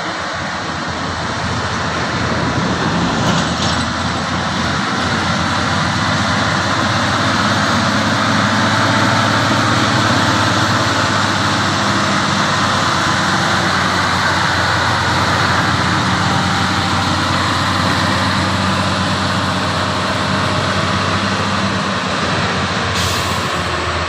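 Heavy truck's diesel engine running steadily under a continuous wash of road and wind noise.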